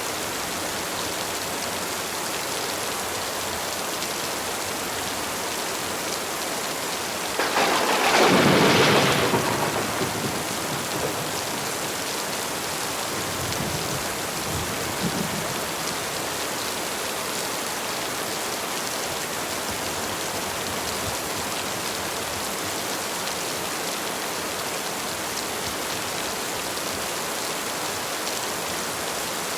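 Steady heavy rain, with a loud clap of thunder about seven seconds in that fades over about three seconds, and a fainter low rumble of thunder a few seconds later.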